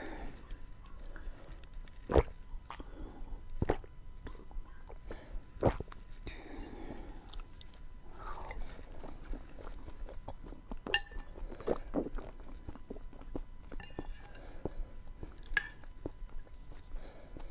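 Close-miked mouth sounds of someone chewing a dish of beans with onion and tomato: irregular wet clicks and smacks, with a few sharper, louder clicks about two seconds and about six seconds in.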